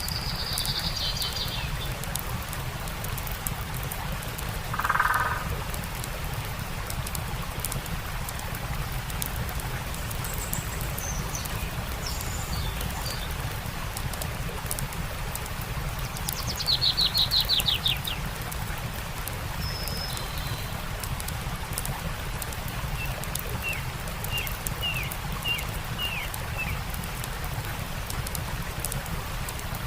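Steady rush of a flowing stream with the faint crackle of a campfire, and songbirds calling over it. A short call comes about five seconds in, a fast trill near the middle is the loudest sound, and a run of short chirps comes near the end.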